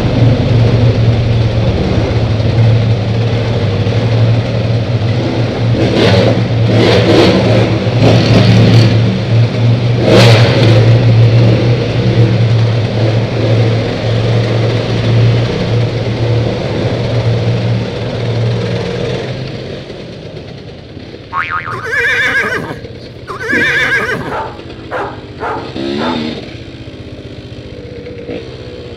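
Dirt bike engines running loud and steady, with short flurries of throttle, for about twenty seconds. The sound then drops off, leaving a few short revs rising and falling near the end.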